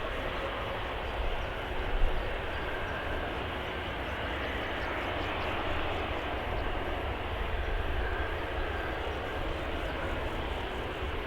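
Airliner engines running at an airport runway: a steady rushing noise with a faint whine, with a brief louder knock about two seconds in.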